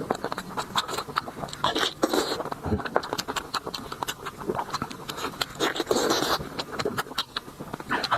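Close-miked eating sounds: wet chewing and mouth clicks that come thick and irregular throughout.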